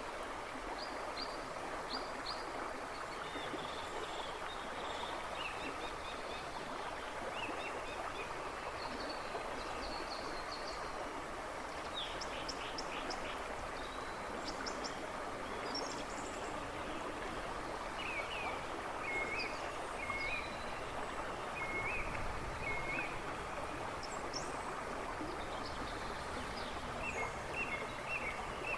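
A river rushing and babbling steadily, with songbirds chirping in the woods behind it: many short chirps and quick trills scattered throughout.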